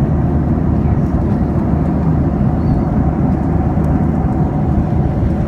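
Airliner cabin noise in flight: a steady, loud, low rumble of jet engines and airflow, with no sudden events.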